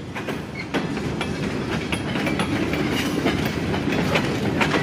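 Freight train's open-top hopper cars rolling past: a steady rumble of steel wheels on rail, with frequent irregular clicks and clanks.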